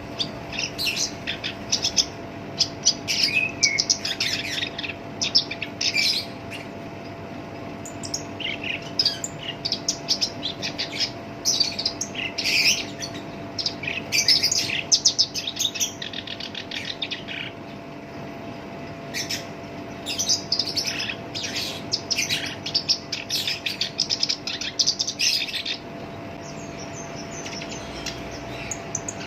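Black-browed reed warbler singing: long runs of rapid, harsh, scratchy chirps and trills, broken by a couple of short pauses.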